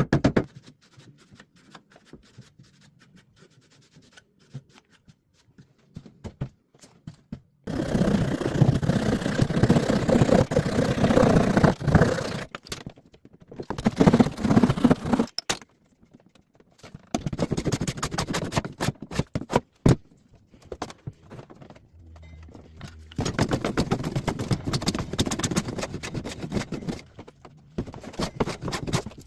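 Bursts of woodworking noise, each lasting a few seconds, with quieter pauses between them.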